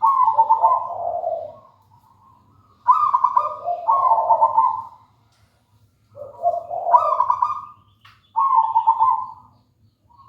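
Zebra dove (perkutut) singing its trilled cooing song, four phrases of about one and a half to two seconds each with short pauses between.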